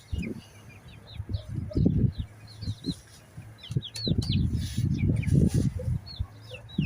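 Chickens clucking, with many short high chirps throughout; the low clucking and scuffling is loudest from about four to six seconds in.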